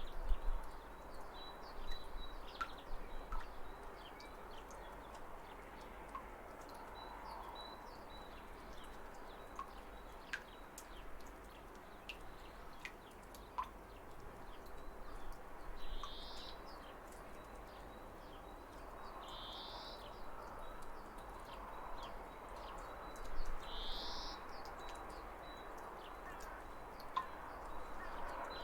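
Steady rush of a waterfall with birds chirping over it; one bird repeats a short rising call about every four seconds in the second half.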